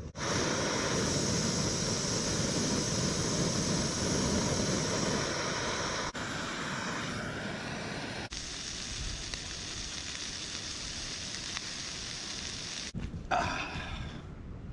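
Chopped vegetables and butter sizzling in a pan over a rocket stove, as a steady hiss. The hiss changes abruptly about six, eight and thirteen seconds in.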